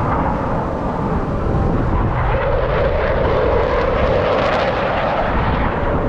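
Aircraft engine noise from an airplane flying past: a steady wash of engine noise with a droning tone that swells about two seconds in and fades away near the end.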